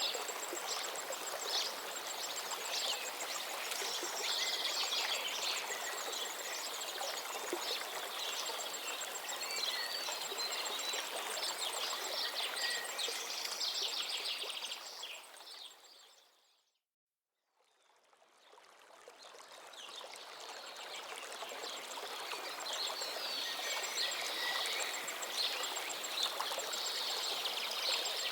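Stream water running steadily with many birds chirping over it. The whole sound fades out to silence a little past halfway, then fades back in over a few seconds.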